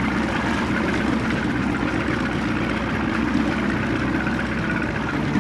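Boat motor idling steadily, a constant low rumble with water and wind noise over it.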